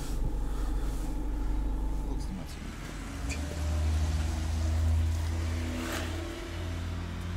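Car engine running with a steady low hum. It is first heard from inside the cabin as the car rolls slowly, and after a cut about two seconds in it is a steadier engine hum outside that swells a little around four to five seconds in.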